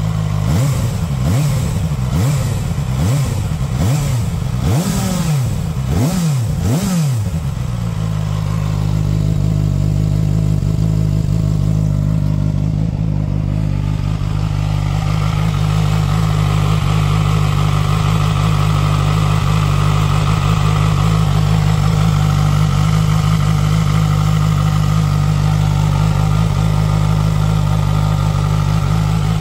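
ZXMOTO 500RR motorcycle engine revved in a series of quick blips for the first seven seconds or so, then running steadily at an even speed. This is its baseline engine sound before a long high-rpm test, with no abnormal noise.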